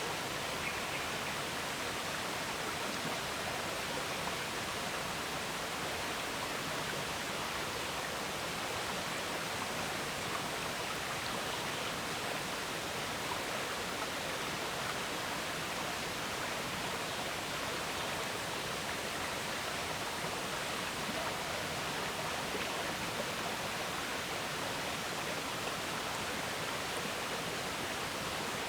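River water flowing steadily, a constant even rush with no breaks or separate splashes.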